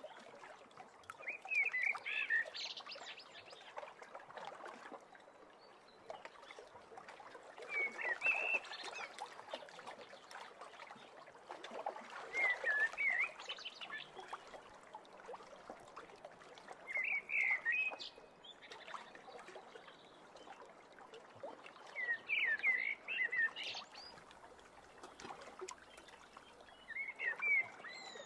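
A bird's short chirping phrase of quick, wavering notes, repeated about every five seconds, over a soft steady hiss.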